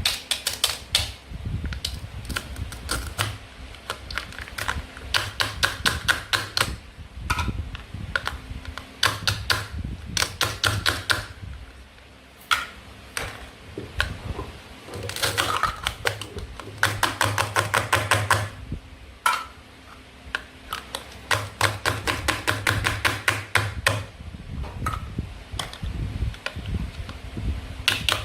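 Rapid runs of sharp plastic clicks and taps, each run lasting a second or a few seconds with short pauses between, from cutting and handling toy play food.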